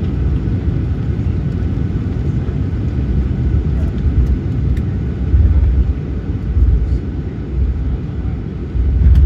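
Cabin noise aboard a Boeing 737-900ER: a steady low rumble of its CFM56 engines and airflow, with a few louder swells in the second half.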